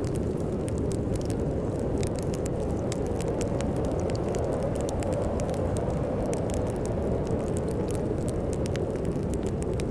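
Wood fire in a fireplace crackling with frequent sharp pops, over a steady low rush of storm wind.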